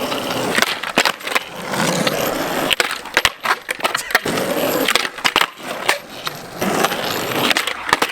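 Skateboard rolling on concrete with its trucks stripped of bushings, the wheels giving a steady rolling rumble broken by many sharp clacks and knocks from the loose trucks and deck.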